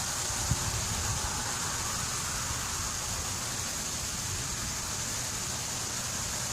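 Ultra-high-voltage transmission line conductors hissing steadily from corona discharge, a high, even hiss that is the sign of the air around the conductors being ionized in humid or wet weather.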